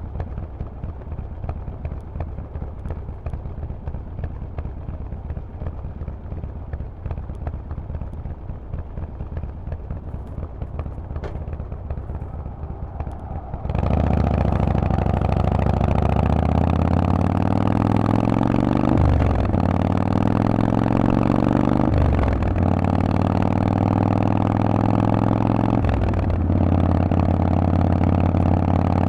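Harley-Davidson Forty-Eight's air-cooled 1200 cc V-twin through a loud Vance & Hines exhaust. For the first half it gives a quieter, uneven low rumble. About halfway through it jumps suddenly to a much louder steady engine note under throttle, which dips briefly three times, like quick throttle lifts for gear changes.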